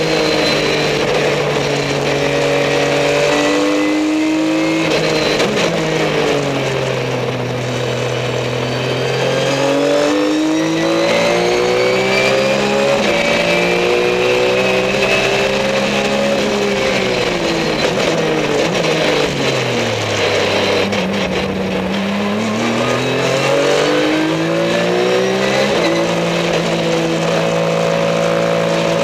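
Race car engine heard from onboard, driven hard on a circuit. Its pitch climbs through the gears and falls under braking again and again, with a long drop to its lowest about twenty seconds in before it climbs once more.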